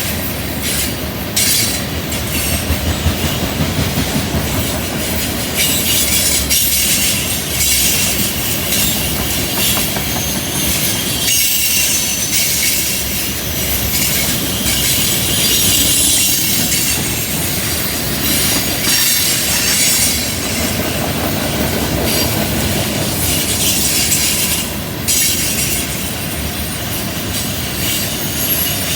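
Railcars of a CN train rolling steadily through a curve, the wheel flanges squealing against the rail over a low rumble, with clickety-clack from the wheels over rail joints.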